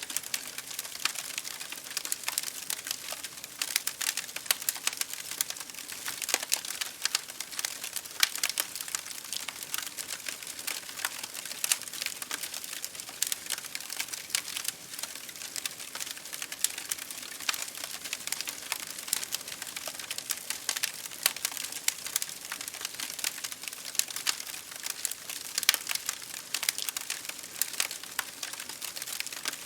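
Wood fire crackling with dense, irregular small pops and snaps, mixed with a steady patter of rain on a window pane.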